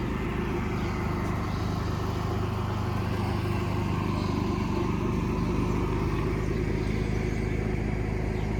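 Diesel pickup engine idling steadily, a low even rumble with a fast clatter.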